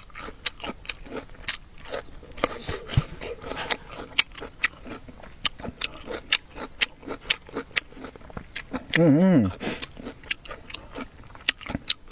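Close-up crunching and chewing of pickled vegetables, with wet mouth clicks and smacks several times a second. About nine seconds in, a short hummed "mmm" rises and falls in pitch.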